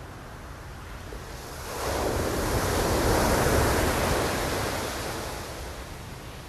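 A single ocean wave breaking and washing up the shore: surf noise swells up about two seconds in, peaks, and dies away over a few seconds, over a steady low rumble of wind on the microphone.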